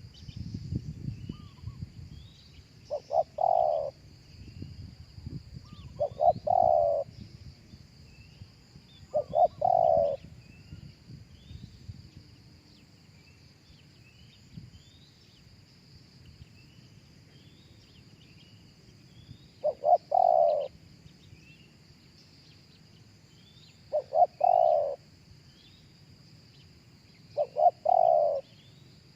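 Spotted dove cooing: six phrases, each a couple of quick notes run into a longer coo, repeated every three to four seconds with a long pause in the middle.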